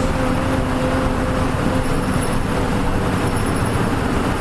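Nissan Diesel KL-UA452MAN city bus running, heard from inside the cabin: a steady engine and road drone with a steady whine whose pitch eases slightly lower near the end.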